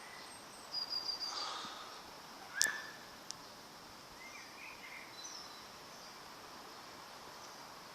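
Wild birds chirping and singing in short, high calls over faint outdoor background noise, with a brief burst of song about a second in. A single sharp click about two and a half seconds in is the loudest sound.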